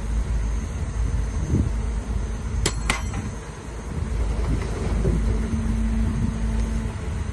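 Heavy diesel earthmoving machinery running with a deep, steady rumble, with two sharp knocks in quick succession a little under three seconds in.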